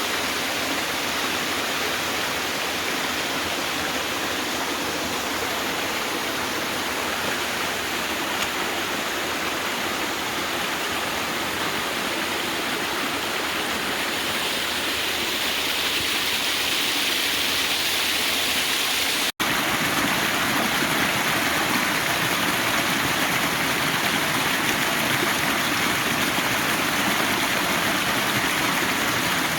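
Waterfall on a forest stream: a steady rush of falling water. Just over halfway through it cuts out for an instant and comes back fuller and deeper.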